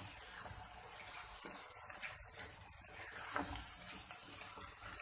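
Liver curry (kaleji masala) sizzling in its released oil in the pan while it is stirred, a steady high hiss with small scrapes from the spoon.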